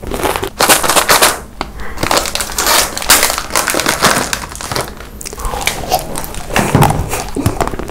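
Crunchy chewing close to the microphone, with a foil snack wrapper crinkling as it is opened about halfway through.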